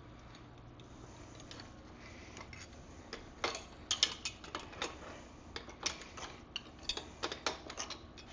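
Irregular small clicks and taps of hand tools being handled while working on the dirt bike's rear axle. The clicks start about three seconds in and come in scattered clusters.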